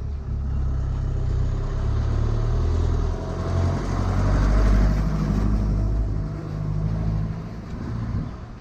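A motor vehicle passing close by on the road, a loud low rumble that builds to a peak about halfway through and fades away near the end.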